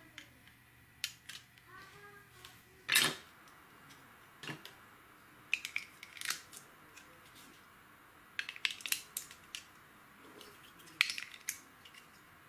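Irregular sharp clicks and clatters of small hard plastic pieces, LEGO bricks being handled and snapped together, some in quick clusters and the loudest about three seconds in.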